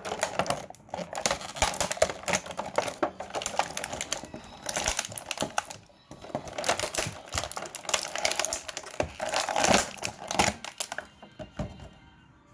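Thin vacuum-formed plastic packaging tray crinkling and clicking in rapid crackly runs as a toy figure is pried out of it by hand, with a short pause about halfway through and another near the end.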